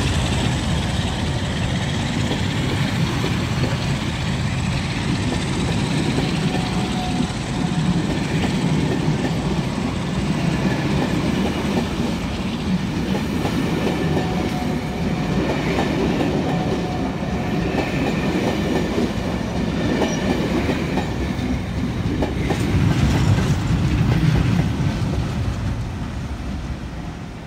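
A rake of passenger coaches rolling steadily past with a rhythmic clickety-clack of wheels over rail joints. Near the end the trailing Class 47 diesel locomotive passes, its engine and wheels growing louder, then fading as the train pulls away.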